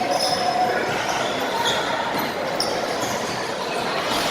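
Indoor basketball game: a ball bouncing on a hardwood court amid short high squeaks, with spectators' voices chattering in a large, echoing hall.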